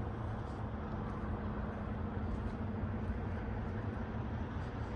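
A semi-truck's diesel engine idling, a steady low hum.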